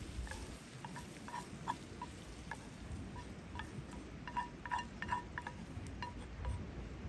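Light ringing clinks, irregular and many, thickest about four to five seconds in, over a steady low rumble.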